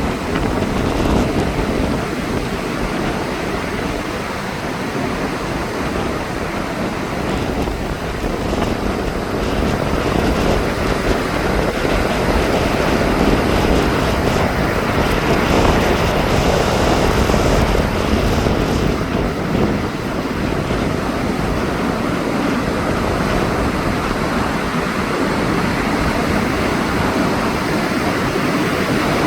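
Ocean surf breaking and washing on a beach, a steady rushing noise that swells a little and falls back, with wind buffeting the microphone.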